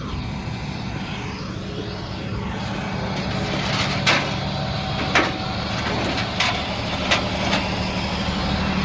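A vehicle engine running steadily with a low hum that grows slightly louder, with several sharp clicks or knocks in the second half.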